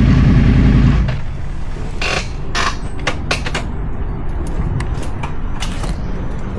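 Motorcycle engine running and cut off about a second in, followed by scattered mechanical clicks, knocks and short scrapes as the bike is handled.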